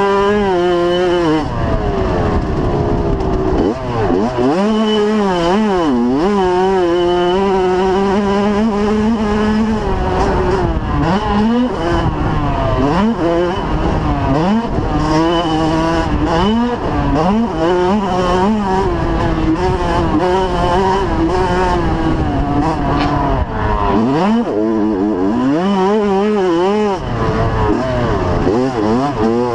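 Several 85cc two-stroke motocross bikes racing, engines revving up and dropping off through the gears. Their pitches rise and fall and cross one another, with throttle chops now and then.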